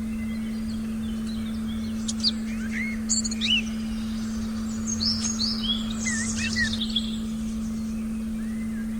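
Forest ambience with several birds chirping in short, quick calls, bunched between about two and seven seconds in, over a steady low tone held throughout.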